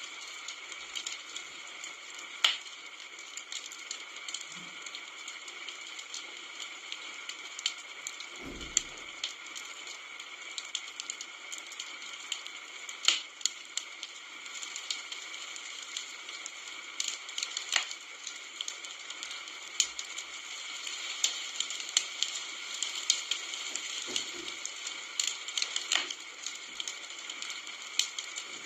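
Wood campfire burning with a steady hiss of flame and irregular sharp crackles and pops, a few of them loud. A single dull thump about eight seconds in.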